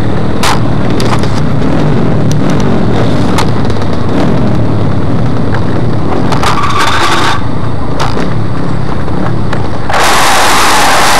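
Suzuki RM85 two-stroke motorcycle engine running, heavily buffeted by wind on the microphone, with scattered sharp clicks. About ten seconds in, the sound jumps suddenly louder and brighter.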